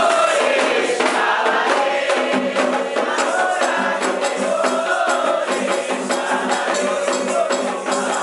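Voices singing a Candomblé chant in Yoruba over steady, rhythmic hand percussion.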